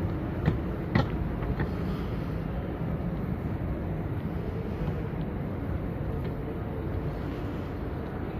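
Outdoor city ambience: a steady low rumble, with a few sharp clicks in the first two seconds.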